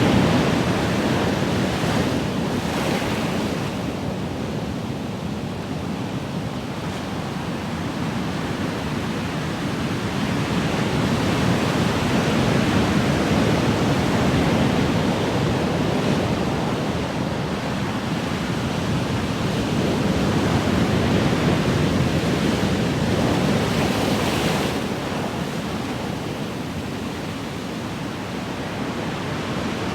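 Ocean waves washing in and out on a shore, a continuous rushing noise that swells and ebbs slowly, with a brighter hissing wash a couple of seconds in and again near the end.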